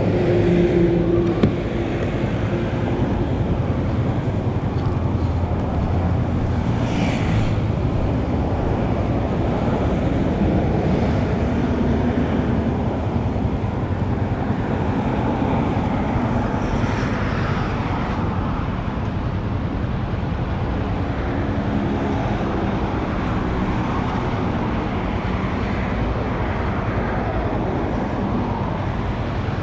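Steady wind and road noise from riding through traffic, with a low engine hum underneath. Brief hissing swells come about seven and seventeen seconds in.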